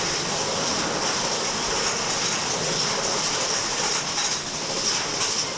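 Big Thunder Mountain Railroad mine-train roller coaster running along its track, a steady rattle of the cars and wheels on the rails.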